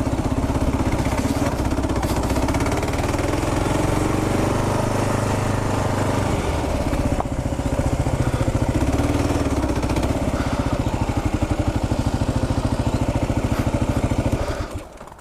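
Kawasaki KLR 650's single-cylinder four-stroke engine running at low revs with a fast, even pulse, its pitch rising and falling a little. It cuts off suddenly near the end.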